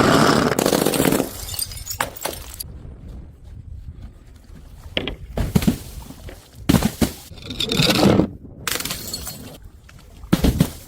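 Glass breaking: a loud shattering crash at the start, followed by scattered sharp knocks and crunchy bursts as pieces land and clatter, with a quick run of impacts near the end.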